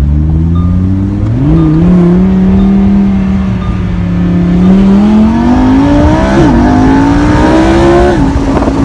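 Lamborghini Huracán Spyder LP610-4's V10 engine accelerating: the revs jump up about a second and a half in, hold steady, then climb, with a brief dip from a gearshift, and fall away near the end.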